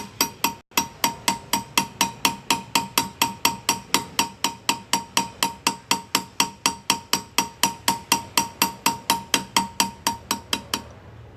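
Chasing hammer tapping a hand graver into metal, about four to five even taps a second, each with a short metallic ring, stopping abruptly just before the end.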